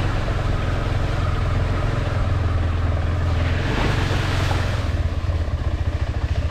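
Motorcycle engine running on a trail ride, a steady low hum under a hiss of wind and tyre noise. The hiss swells about four seconds in, and the level pulses near the end.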